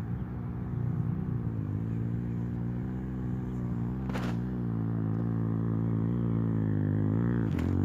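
Dirt bike engine climbing a hill, its pitch rising and falling with the throttle and growing louder as it comes closer. A short sharp crack about four seconds in and another near the end.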